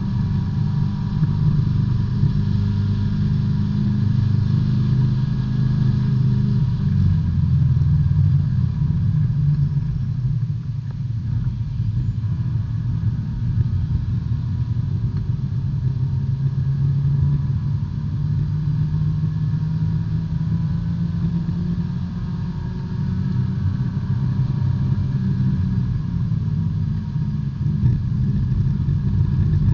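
B-Spec race car's small four-cylinder engine running hard, heard from inside the cabin, its pitch falling and rising with lifts, shifts and throttle through the corners; the pitch drops about seven seconds in.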